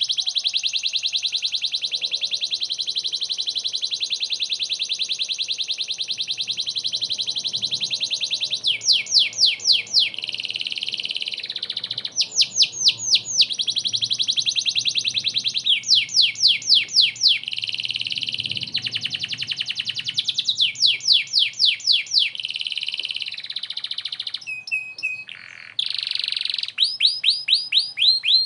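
Domestic canary singing continuously. It opens with a long, very rapid trill of about eight seconds, then runs through phrases of quick downward-sweeping notes, several a second, alternating with further trills.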